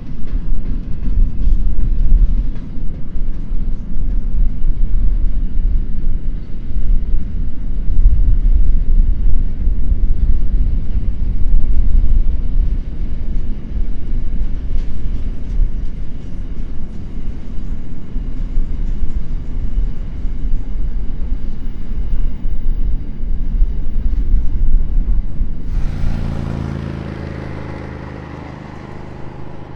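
Long intermodal freight train's wagons rolling past, a loud steady rumble with light clatter from the wheels on the rails. About 26 seconds in it cuts to a steady pitched engine drone that slowly fades.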